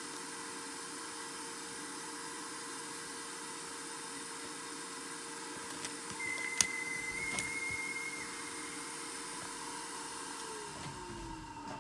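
A small motor running steadily with a hissing whir and a hum. It is joined in the middle by a high beep-like tone of about two seconds with a couple of clicks, and the hum starts to drop in pitch near the end as the motor winds down.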